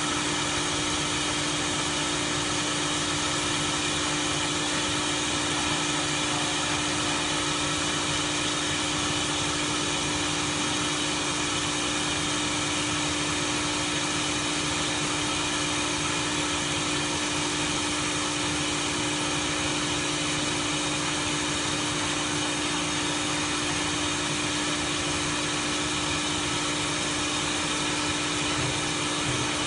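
Automatic pole welding machine running: a steady machine hum with one constant low tone over an even hiss, unchanging throughout.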